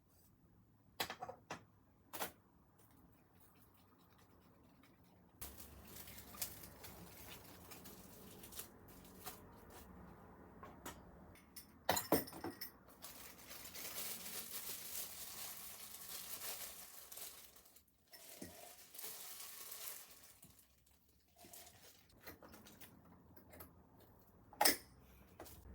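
Kitchen food-preparation sounds: a few light clicks and knocks, then a long stretch of rustling and scraping with occasional clinks of dishes.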